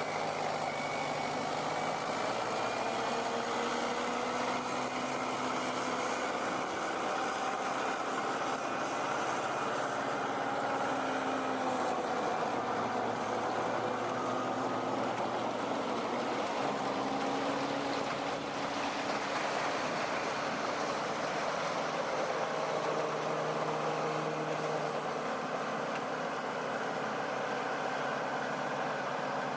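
A heavy truck's engine running steadily, its pitch drifting slowly up and down as the revs change.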